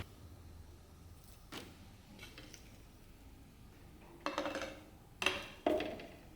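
Small hard objects clinking and knocking as they are handled and set down on a work surface: a light tap, then three louder clinks near the end, each ringing briefly.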